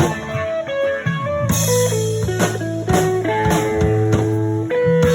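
Blues music: a guitar playing single-note lines and held notes over bass notes and drum hits, with no singing.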